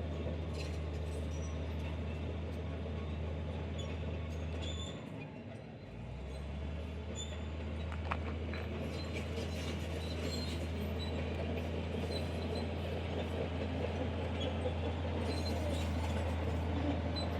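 Heavy diesel earthmoving machinery running with a steady low drone. It eases off briefly about five seconds in, then builds back up, with scattered squeaks and clicks and a sharp click about eight seconds in.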